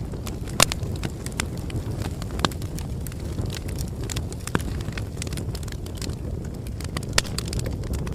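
Bonfire crackling: a steady low rumble of burning with constant small snaps and a few louder pops.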